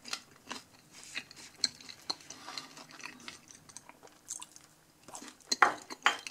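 Close-up chewing of a mouthful of Pizza Hut pan pizza crust: irregular small wet clicks and crackles, a few a second. Near the end, a couple of louder clacks as a small plate is set down on a wooden table.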